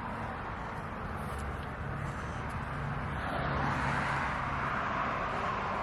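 Traffic noise from a passing motor vehicle, a steady rushing that swells louder about three seconds in.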